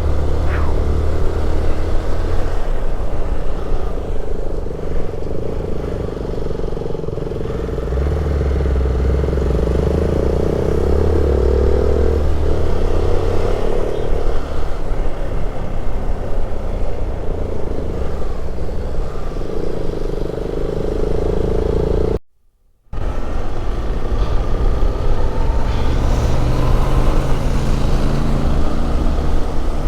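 Hero XPulse motorcycle's single-cylinder engine running under way, its note shifting with the throttle, with steady wind rush over it. The sound drops out for about half a second roughly two-thirds of the way through.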